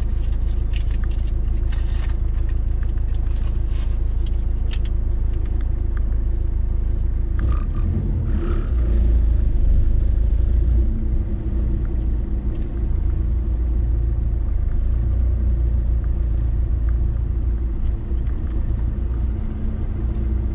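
Car driving at highway speed, heard from inside the cabin: a steady low rumble of engine and tyres on the road. Scattered short ticks come in the first few seconds, and the rumble swells about eight to ten seconds in.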